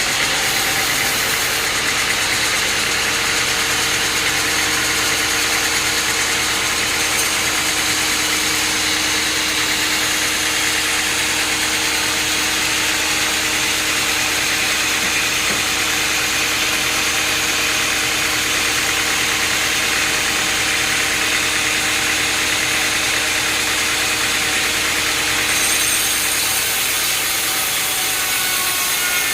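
Machinery engine running steadily with a constant hum, which shifts slightly in tone about four seconds before the end.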